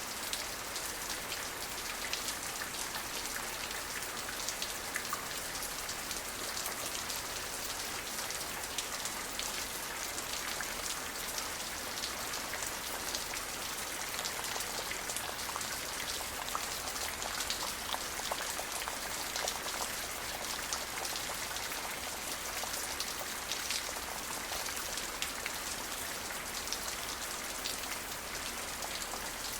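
Steady rain falling, a continuous hiss of many small drop ticks and patters, some individual drops standing out.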